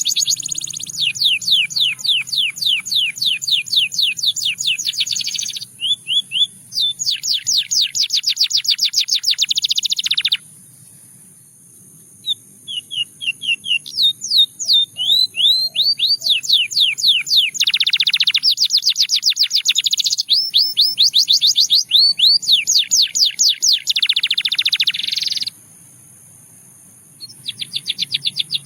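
Russian singing canary singing in rapid trills, each a long run of repeated quick notes, changing from one trill to the next. The song breaks off briefly about ten seconds in and again near the end.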